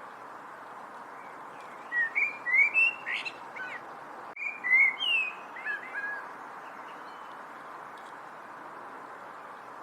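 A songbird chirping in two short bursts of quick rising and falling notes, about two seconds in and again around four and a half seconds in, over a steady background hiss.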